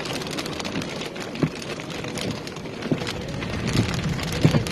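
Rain pattering on a moving car, heard from inside the cabin over steady road noise, with a few louder knocks.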